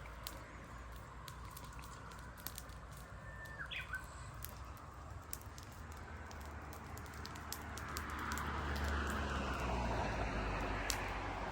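Small wood campfire crackling with scattered sharp pops, a single bird chirp about four seconds in, and a gust of wind swelling up about eight seconds in.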